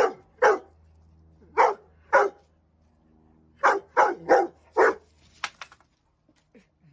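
A dog barking: eight sharp barks in three bunches, two, then two, then four quick ones, ending about five seconds in.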